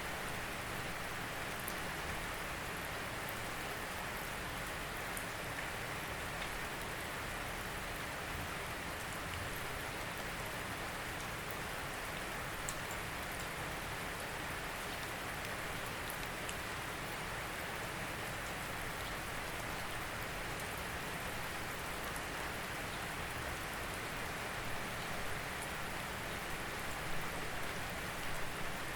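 Steady rain falling, an even hiss with occasional faint sharp drop ticks.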